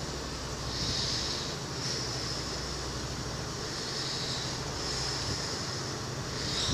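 Irish Rail intercity train carriages rolling slowly along a platform, with a steady low drone underneath and a high hiss that swells and fades about once a second.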